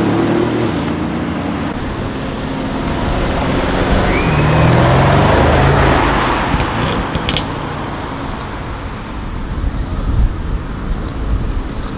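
Modified car driving past with its engine and exhaust rumbling. The sound swells to a peak about five seconds in and fades, over the low rumble of other engines.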